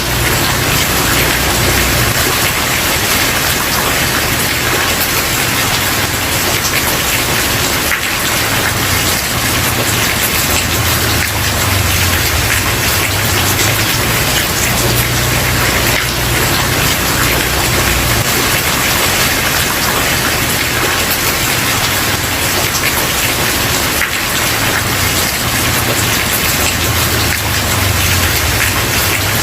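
Steady heavy rain falling on a wooden porch, a dense even hiss of drops with fine ticks of individual drops throughout, over a patchy low rumble.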